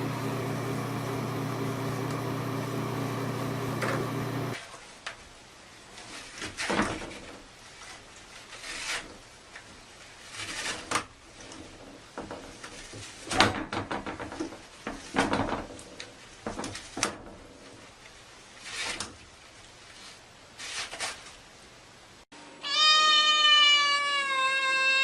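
A steady hum for the first four seconds or so, then a run of short, scattered knocks and noises, and near the end a long drawn-out cat meow that rises and falls a little in pitch.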